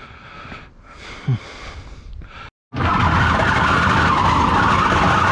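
Heavy scrap appliance being dragged, with quieter handling clunks first and then, about three seconds in, a loud, steady scraping that carries on.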